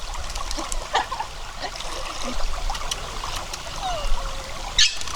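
Stream water trickling and splashing around people bathing in it, with one brief, louder splash almost five seconds in.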